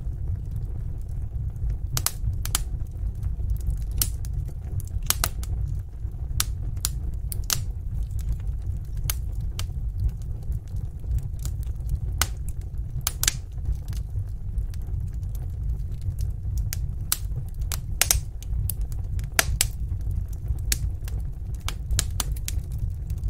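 Fire crackling in a fireplace: irregular sharp pops and snaps, a few of them at a time, over a steady low rumble of the flames.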